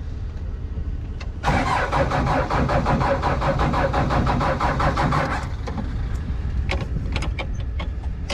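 An engine being cranked over by its starter motor for about four seconds in an even, rapid pulsing, without catching, then stopping; a few sharp clicks follow. A steady low rumble runs underneath.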